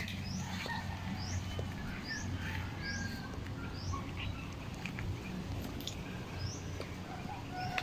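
A bird repeating a short, high, rising chirp about every half second, with a pause in the middle, over a low steady hum and a few faint clicks.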